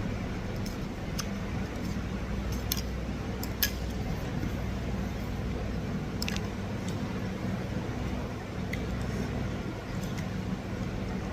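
A person eating boat noodles: chewing, with a scattered handful of sharp clicks and crackles. A steady low hum runs underneath.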